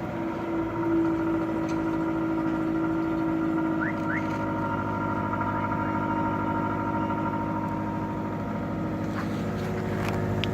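Subaru Outback boxer engine idling steadily through open, straight-through exhaust cans, a steady low exhaust hum.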